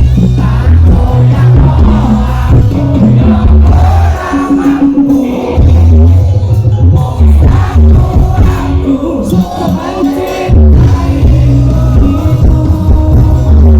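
Live campursari band music played loud through a concert sound system, with a heavy pulsing bass beat and a singer's voice over it.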